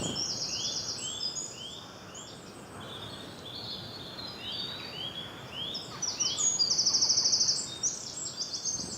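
Several small songbirds singing and calling together: repeated short slurred chirps, and rapid high trills, the loudest of which comes about two thirds of the way through.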